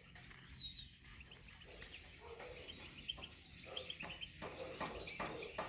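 Faint, short chirps of small birds, with a brief rising whistle about half a second in, and a few soft clicks and rustles in the second half.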